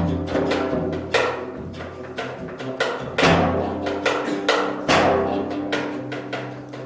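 Korean zither music: a run of sharply plucked notes, each ringing out and fading, with heavy low, drum-like strikes about three seconds in and again near five seconds.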